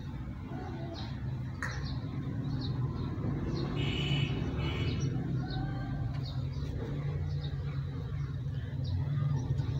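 Birds chirping, short high calls about once or twice a second, over a steady low hum.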